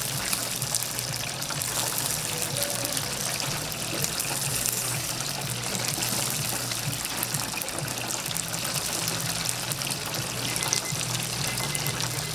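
Whole chickens deep-frying in hot oil: a steady, dense sizzle of fine crackles.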